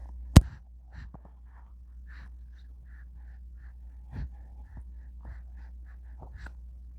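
Infant's soft breaths and small mouth and throat sounds, short and scattered, with one sharp click about half a second in, over a steady low hum.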